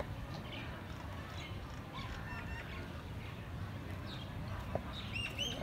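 Small birds calling: scattered short chirps, then a quick run of arching calls near the end, over a steady low rumble.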